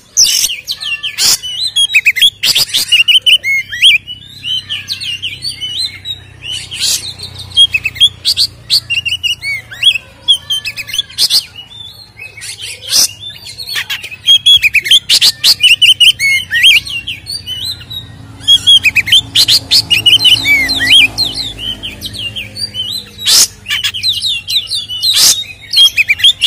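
Oriental magpie-robin (kacer) singing continuously: a loud, fast, varied run of whistles and chirps broken by sharp clicking notes. This is the excited, aggressive 'fighting' song used as a lure to provoke other magpie-robins.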